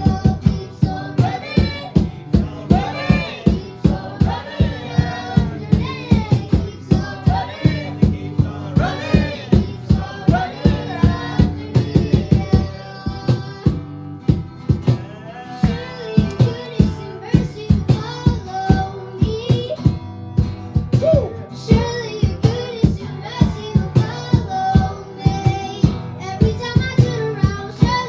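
Live worship band music with a steady drum beat and a melody line over it.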